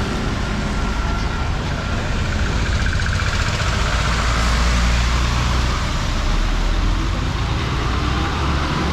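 Road traffic: a steady rumble of vehicle engines and road noise, swelling a little around the middle.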